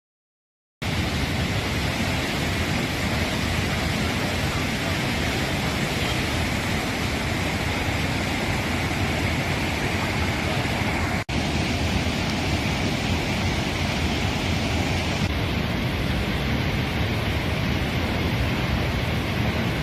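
Flash-flood water rushing, a steady, dense noise of turbulent water that starts just under a second in and breaks off for an instant about eleven seconds in.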